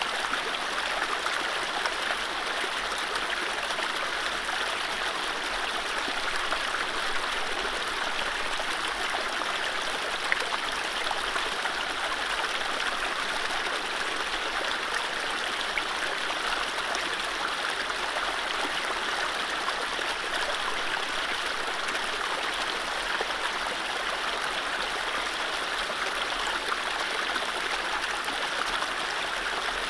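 Mountain stream running over low rapids: a steady rush of water, with small splashes and gurgles ticking through it.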